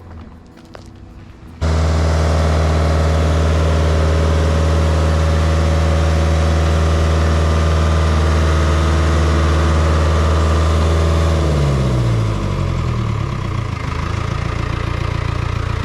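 Boat lift's engine running steadily at high revs, starting abruptly about a second and a half in; about twelve seconds in its pitch falls away and it settles to a lower idle.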